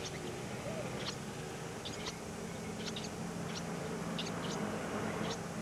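Small birds chirping: short, high peeps, about one or two a second, over a steady low hum.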